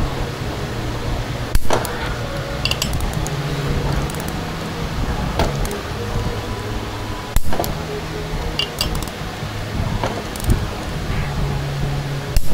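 Metal tools clinking and knocking during motorcycle repair work: a few sharp knocks several seconds apart and lighter metallic ticks over a steady low hum.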